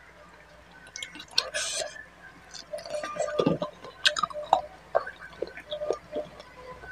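Close-miked chewing of a mouthful of rice and bata fish curry, with irregular mouth smacks and clicks.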